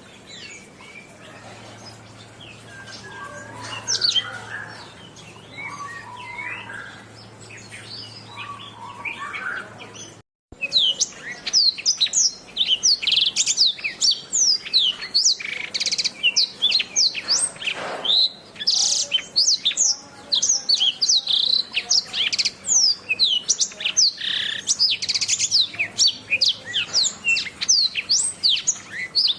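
Domestic canary singing. For about the first ten seconds there are softer, scattered chirps. After a brief break, a loud, fast, unbroken song of rapid high notes gliding up and down runs on to the end.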